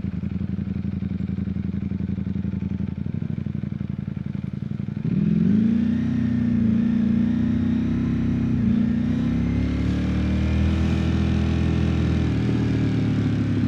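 Ducati Streetfighter V4 S's 1103 cc V4 engine running low and steady, then rising in pitch and getting louder about five seconds in as the bike accelerates. After that it holds a steady note with small dips.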